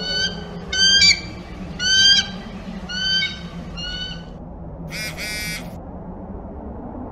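Bird calls: five short, high calls about a second apart, then a different, harsher call lasting about half a second near the middle, over a low steady background hum.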